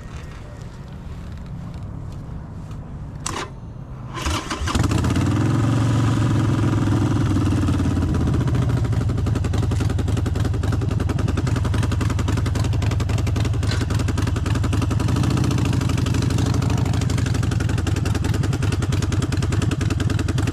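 Harley-Davidson Forty-Eight's air-cooled V-twin being started: a click, a brief crank about four seconds in, then the engine catches and runs steadily and loudly.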